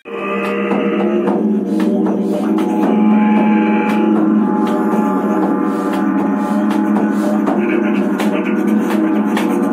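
Two didgeridoos droning on a steady low note, with irregular hand-percussion strikes and jingles over the top. It cuts in suddenly at the start.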